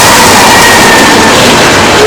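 Norfolk Southern freight train rolling past at close range: a loud, steady rush of wheel-on-rail noise from the loaded coil cars.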